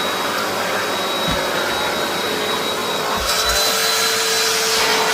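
Vacuum cleaner running steadily, a motor noise with a thin high whine. About three seconds in the hiss turns brighter and a little louder.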